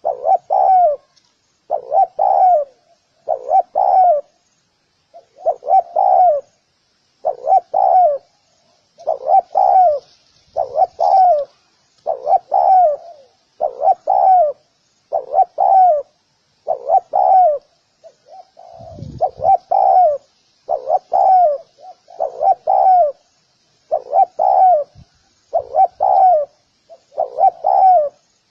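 Spotted dove cooing: short phrases of two or three notes, repeated about every second and a half with short pauses between. A faint low thump about nineteen seconds in.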